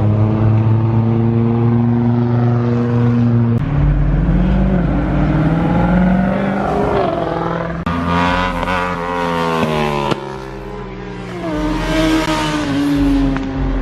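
Car engines running: a steady drone for the first few seconds, then revving and accelerating with pitch rising and falling. The sound changes abruptly about eight and again about ten seconds in.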